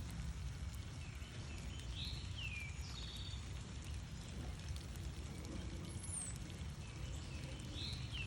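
Northern cardinal singing a loud whistled phrase that slurs downward, heard about two seconds in and again at the end, over a steady low rumble. A thin, very high note from another bird comes once near the middle.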